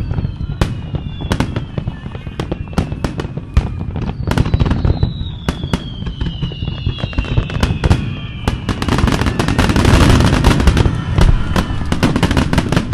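Fireworks finale barrage: many aerial shells bursting in quick succession, with crackling. High whistling tones slide slowly down in pitch over the first several seconds, and the barrage peaks in a dense crackle about ten seconds in.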